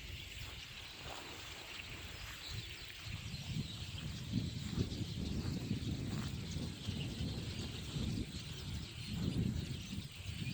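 Massed calls of a very large flock of birds, a continuous dense chattering haze with no single call standing out. A low, uneven rumble runs underneath and is the loudest part.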